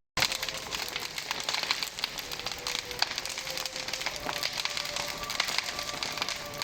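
Large outdoor Christmas log bonfire burning, crackling with frequent irregular pops and snaps of burning wood.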